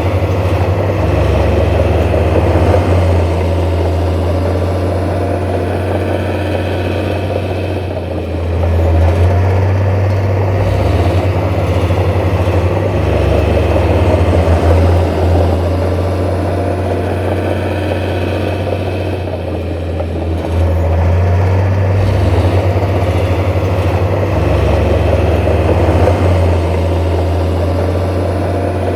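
Heavy diesel engine of earthmoving machinery running loudly with a steady low drone. The sound eases briefly about eight seconds in and again around twenty seconds, then picks back up as the load comes on.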